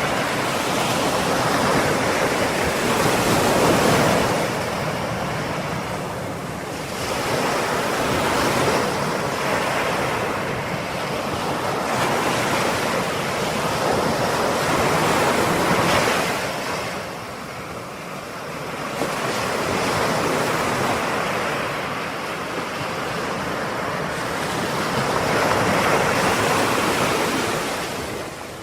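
Ocean surf: waves breaking in a continuous rush that swells and eases every several seconds.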